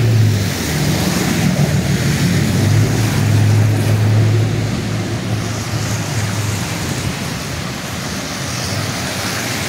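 Strong wind rushing with rain, over a vehicle engine's steady low hum that fades out about seven seconds in.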